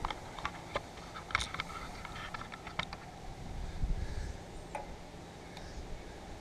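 Scattered light clicks and taps of small parts and tools being handled while wiring a lawn tractor's fuel solenoid, most of them in the first three seconds, with a low rumble about four seconds in.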